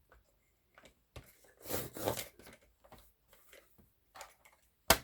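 Paper rustling and rubbing as journal pages and paper cut-outs are handled on a desk, with scattered small taps and one sharp knock just before the end.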